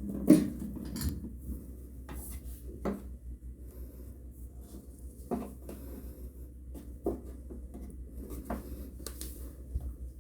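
Scattered light knocks and clicks, the loudest just after the start, over a low steady hum.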